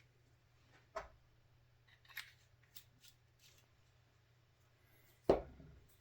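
Light, scattered clicks and taps of small hobby tools and plastic model parts being handled on a work desk, then one sharper, louder knock a little after five seconds in.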